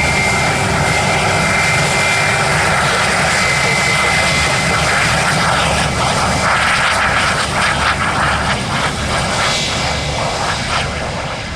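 Jet airliner engines, a loud steady rush with a high whine that fades out a couple of seconds in; the sound eases off near the end.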